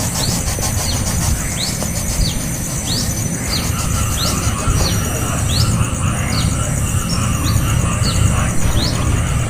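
Young songbird's begging chirps: short, sharp high notes repeated about one and a half times a second, typical of a nestling calling to be fed. Underneath run a steady high hiss and a louder low rumble.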